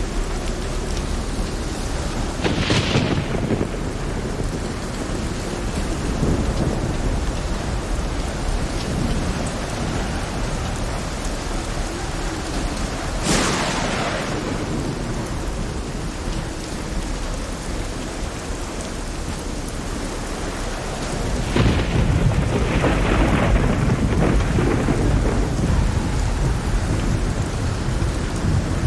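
Heavy rain pouring steadily, with three thunderclaps: about two seconds in, about halfway through, and about two-thirds of the way through. The last rolls on for several seconds.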